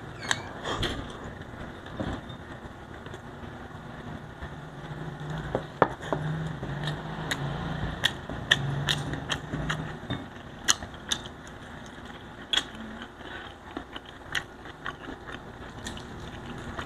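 Close-up eating by hand: chewing and lip-smacking, with many short sharp clicks from a mouthful of fried tilapia and rice. A low closed-mouth hum runs for a few seconds in the middle.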